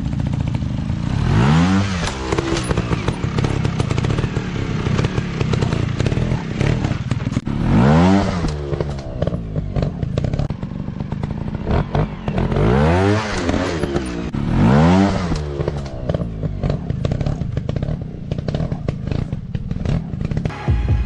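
Dirt bike engines running and being revved in repeated bursts, the pitch rising and falling about four times, with many sharp clicks and knocks throughout.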